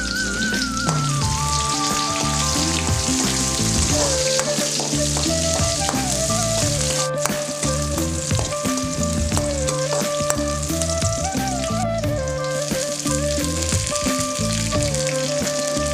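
Sliced onions sizzling in hot oil in an aluminium wok as they are stirred, with occasional clicks and scrapes of the spatula, over background music with a melody.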